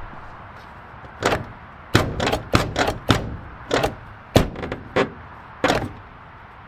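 A series of about ten sharp knocks and clanks at an irregular pace, over a steady background hiss.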